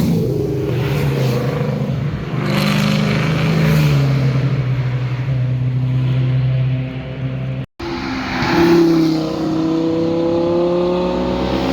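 Performance car engines and exhausts running past. One car's engine note drops and holds steady. After an abrupt cut, another car accelerates with its engine note climbing.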